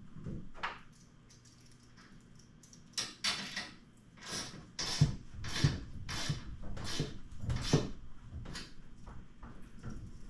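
A series of metallic clanks and scrapes, about one every two-thirds of a second for several seconds, from metal hardware being worked on during a garage door torsion spring replacement.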